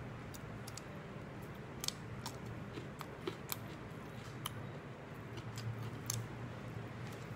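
Someone chewing raw cucumber slices: irregular crisp crunches and wet mouth clicks, about a dozen over several seconds, over a low steady hum.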